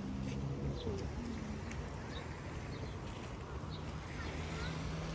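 Birds calling outdoors: short high chirps scattered throughout, with lower drawn-out notes near the start and again near the end.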